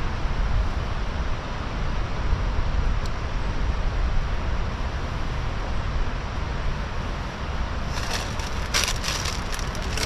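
Steady rushing background noise with a low rumble of wind on the microphone. About eight seconds in, a burst of sharp crinkling and crackling starts: a plastic crisp packet being pulled out and handled.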